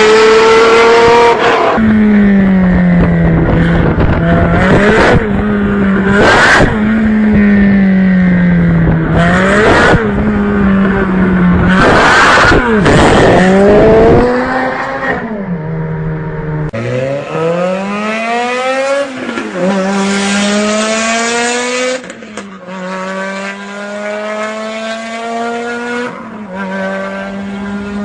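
Supercar engines revving hard, with sharp loud bursts of throttle over the first half. After that, quieter engine notes climb again and again as the cars pull away.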